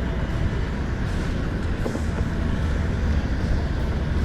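Wind buffeting the microphone with a steady low rumble, over the wash of open water around a kayak.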